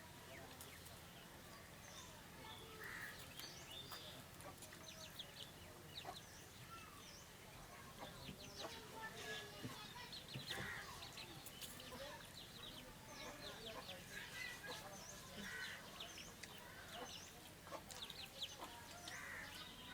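Chickens clucking faintly now and then, with small scattered clicks and taps.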